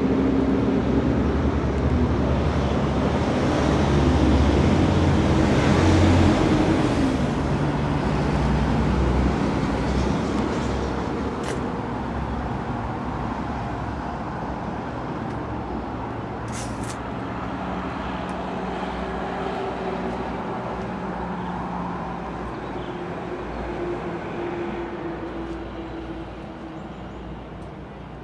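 A heavy vehicle's engine running with a low rumble, loudest about five seconds in, then slowly fading away. Two short sharp clicks come in the middle.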